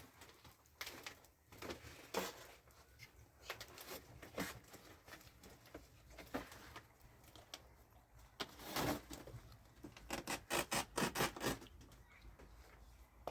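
Thin plastic bags rustling and crinkling in irregular short scrapes as they are handled, with a quick run of rustles late on.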